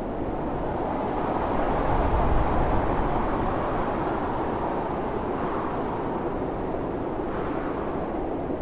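Blizzard wind blowing hard and steadily, a dense rushing noise. A stronger gust swells about two seconds in, bringing a low rumble, then eases back.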